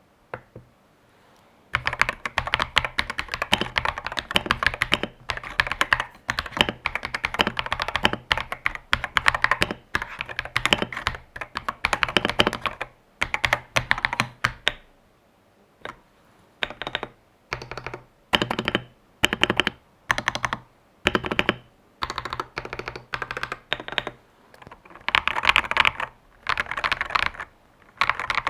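Stock Akko 5075 mechanical keyboard with linear Akko Cream Yellow V3 Pro switches and ASA doubleshot keycaps being typed on: fast continuous typing starting about two seconds in, a stretch of separate short bursts about once a second in the middle, and fast typing again near the end. Unmodded, it has spring noise, some scratchiness and a hollow plastic-case sound, in the uploader's view.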